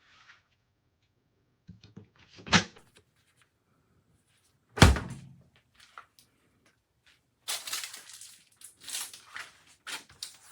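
Two knocks about two seconds apart, the second a heavy thunk, followed by a few seconds of rustling and handling noise.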